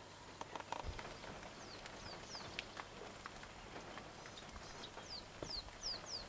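Faint outdoor ambience: a bird calling in short falling whistles, three in quick succession about two seconds in and three more near the end, with scattered soft clicks and knocks and a low thud about a second in.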